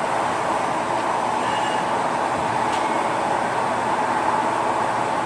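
CNC lathe running with a steady, even machine noise.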